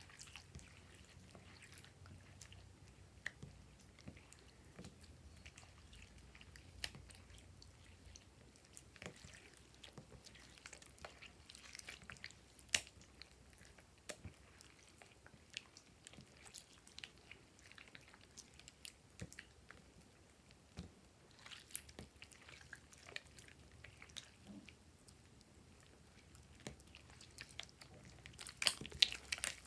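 Slime being handled, giving faint, irregular sticky clicks and squishes, with a denser cluster near the end.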